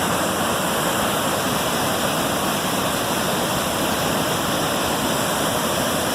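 Brule River waterfall at Devil's Kettle pouring at high flow: a steady, loud rush of falling water.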